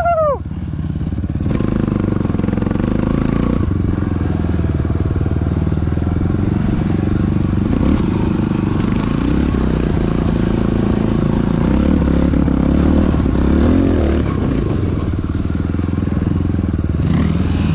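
Dirt bike engine running under way as it is ridden, its pitch rising and falling with the throttle.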